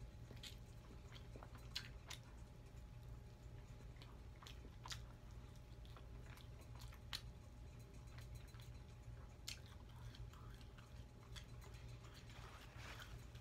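Faint close-up chewing and biting of breaded fried chicken wings, with scattered crisp crunches and clicks every second or two, over a steady low hum.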